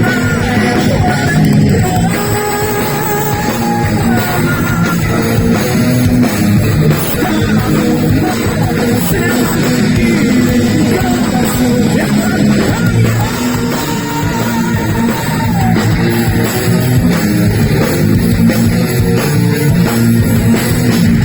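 Live heavy metal band playing: distorted electric guitars, bass and drum kit, with a lead guitar melody holding long notes at a few points.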